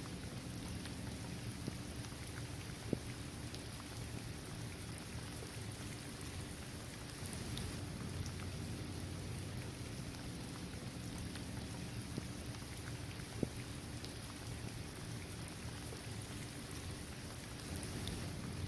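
Steady rain falling on a hard court surface, trees and grass, with scattered individual drops ticking through it and two louder drips.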